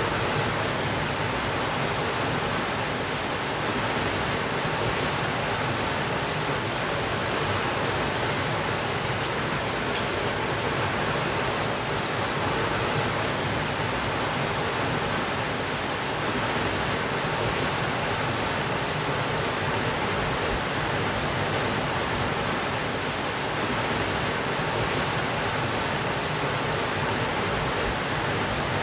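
Steady rainfall, an even hiss with no change in level and a few faint scattered ticks.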